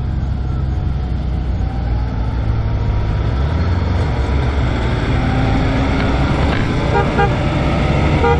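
Car engine and road noise heard from inside a moving car's cabin: a steady low rumble. Near the end comes a short run of quick beeps.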